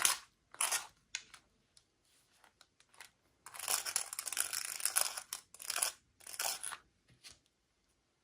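Packaging being torn open and handled: short rasping tears, a longer rustling, tearing stretch about three and a half seconds in, and small clicks and taps in between.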